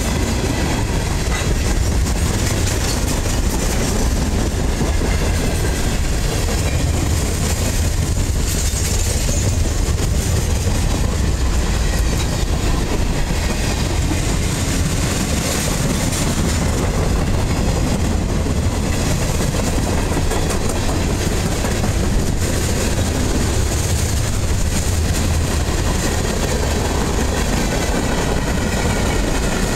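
Freight cars of a mixed train, including tank cars, flatcars, a boxcar and covered hoppers, rolling past close by. Steel wheels rumble and clatter steadily over the rail joints.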